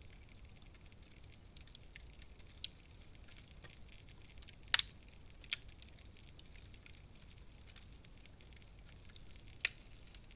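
Wood fire crackling in a fireplace: a soft steady hiss with scattered sharp pops, the loudest a quick double pop about halfway through.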